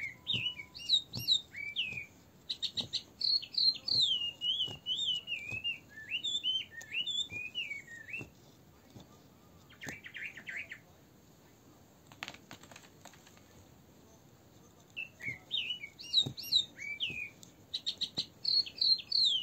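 A songbird singing in quick warbling, gliding phrases. It stops for several seconds midway, then starts again. Faint ticks come through under it, from the punch needle piercing the fabric.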